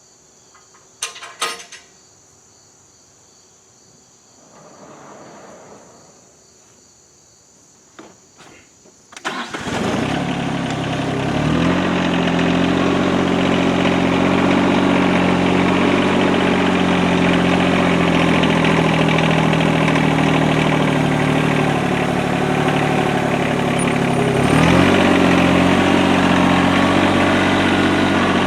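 A few sharp clicks, then about nine seconds in the engine of a Norwood LumberMate LM29 portable band sawmill starts and runs steadily, its speed shifting slightly twice.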